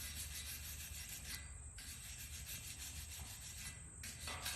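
Wire brush scrubbing back and forth on wrought iron patio furniture, scraping off loose, flaking paint and rust.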